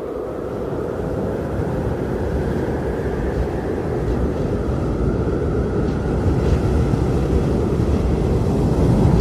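Strong blizzard wind blowing, a steady deep rushing rumble that slowly builds in strength.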